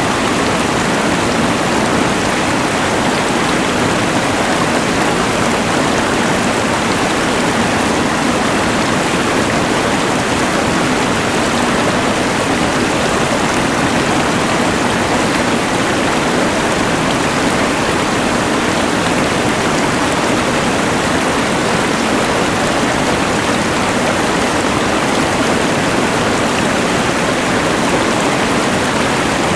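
Rushing mountain river blended with the steady hiss of a LectroFan white noise machine, one even wash of noise with no changes.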